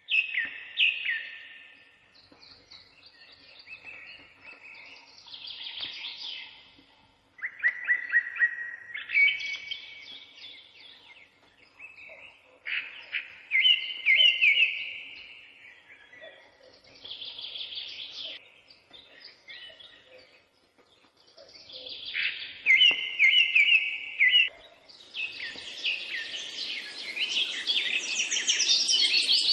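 Songbird singing in short phrases of quick chirps and trills with brief pauses between them. Near the end the song grows denser over a steady hiss.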